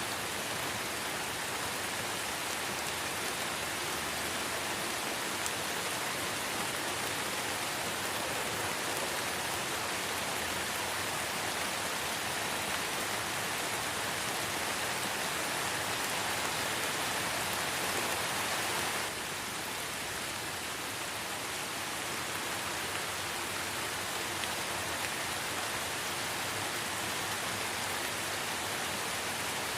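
Light rain falling steadily: an even hiss of many drops. The level drops slightly about two-thirds of the way through.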